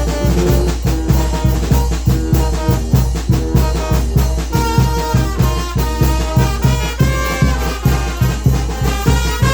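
Mexican banda de viento (brass wind band) playing: trumpets and trombones carry a melody over a steady bass-drum and percussion beat of about two strokes a second.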